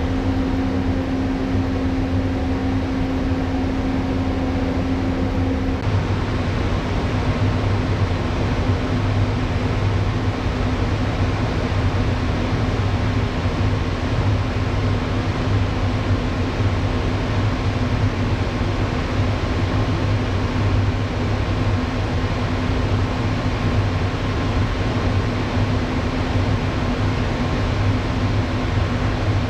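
Steady low hum of a moored ship's onboard machinery and ventilation inside the passenger spaces. The tone shifts slightly about six seconds in.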